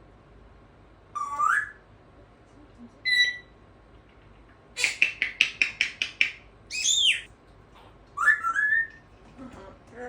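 African grey parrot whistling and chirping: a rising whistle, a short whistle, then a quick run of about eight sharp chirps, an arched rise-and-fall whistle, and more whistles near the end.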